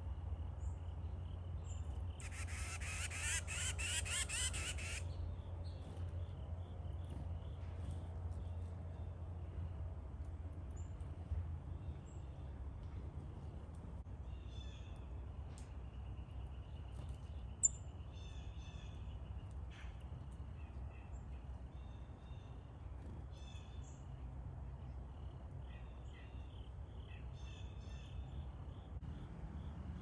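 Wild birds calling around a hanging feeder: a buzzy call lasting about three seconds near the start, then scattered short chirps. A low, steady rumble runs underneath.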